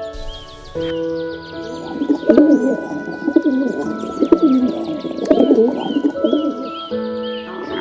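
A bird cooing in several short phrases over background music with steady held notes.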